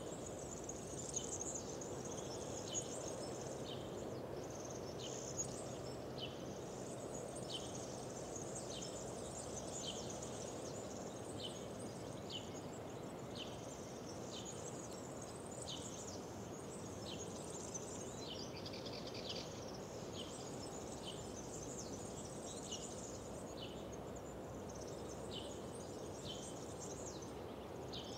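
Small songbirds chirping and trilling, short high calls repeating every second or so, over a steady low background rush.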